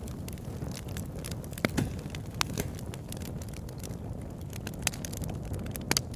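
Wood fire burning in a fireplace: a steady low rumble of flames with scattered sharp crackles and pops, a few louder ones about two seconds in and near the end.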